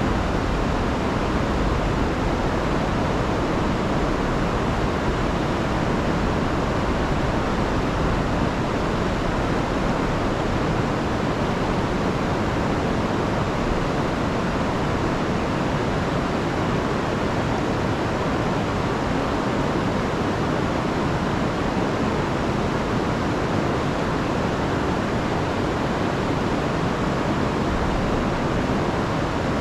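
Rain-swollen river rushing over waterfalls: a deep, even rush of water, steady throughout.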